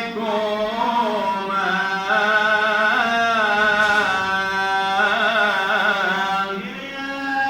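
A male voice chanting in Coptic liturgical style, drawing the final word 'ilaykuma' out into a long melismatic phrase. The held notes waver and turn in ornaments, with a brief dip in loudness near the end.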